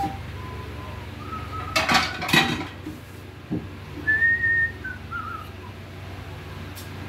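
A person whistling a slow tune in a few sliding notes. About two seconds in there is a short clatter of a metal utensil against a pot, with a lighter knock a little later, all over the steady hum of an electric fan.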